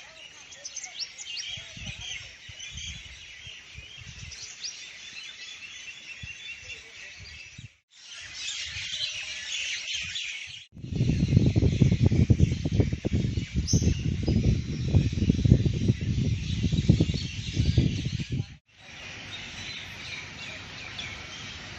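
Birds chirping and calling steadily in the background, interrupted by abrupt cuts. In the middle, a loud low rumble takes over for about eight seconds, then stops at a cut.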